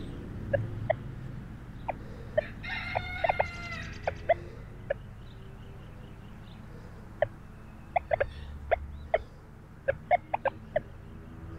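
Birds calling: many short, scattered clucks, with one longer call about three seconds in.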